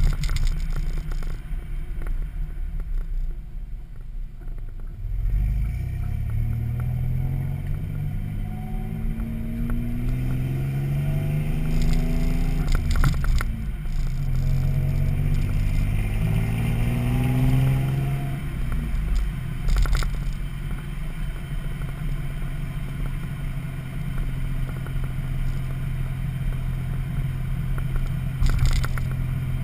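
Exhaust of a 1995 Toyota 4Runner's naturally aspirated 3.4 L V6, through a Flowmaster 40 muffler and 4-inch pipe, with a deep note. The engine note climbs in pitch three times, dropping back after each climb, then settles into a steady drone for the rest of the clip.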